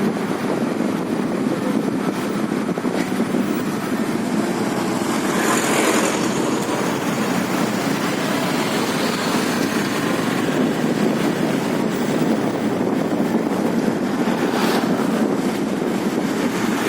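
Steady motorcycle riding noise: the engine running at a constant pace under a continuous rush. Two brief louder swells come about six seconds in and again near the end.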